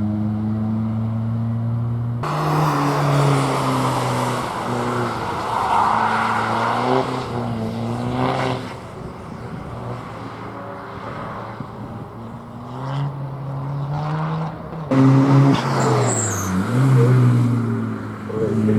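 Race car engine running hard, its pitch climbing under acceleration and dropping back at gear changes. The sound changes abruptly twice, about two seconds in and near the end.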